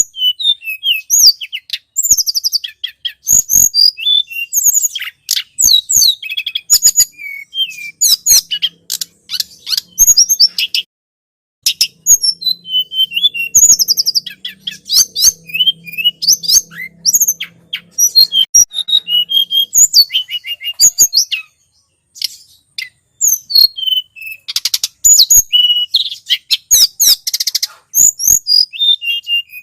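Tledekan gunung (a mountain flowerpecker) singing in a lure recording: a dense run of rapid, very high-pitched chirps and short trills with brief pauses. A faint low hum sits beneath it for part of the time.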